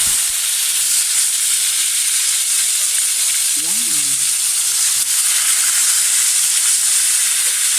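Tuna steak frying in hot cooking oil in a pan: a loud, steady sizzle.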